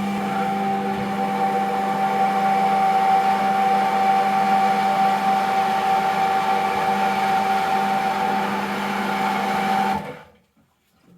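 Domestic water pump station's electric pump running with a steady hum on the water system's first start-up, then cutting off suddenly about ten seconds in.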